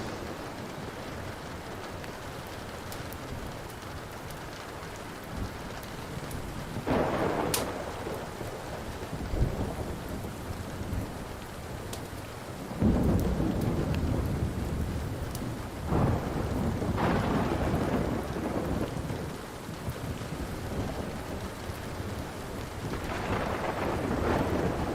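Steady rain with several rolls of thunder: a rumble about seven seconds in, a longer heavy one from about thirteen seconds lasting several seconds, another around sixteen seconds, and a swell near the end. A wood fire's occasional sharp crackles sound over it.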